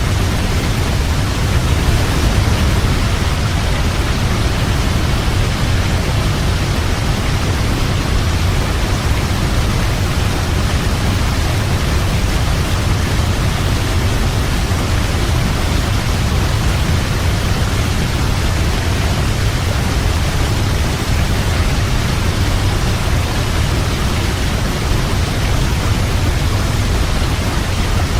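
Waterfall: water falling and splashing in a steady, unbroken rush, heavy in the low end.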